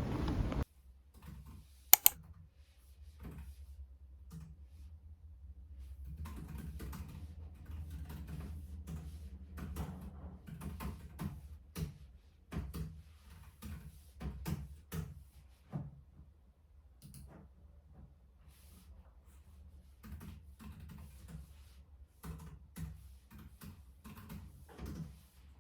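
Typing on a computer keyboard: irregular bursts of keystrokes over a faint steady low hum, with a single sharper click about two seconds in.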